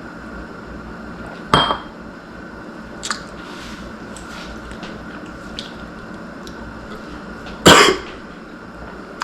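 Two sharp knocks about six seconds apart, the second louder, with a fainter one between them, over a steady hum.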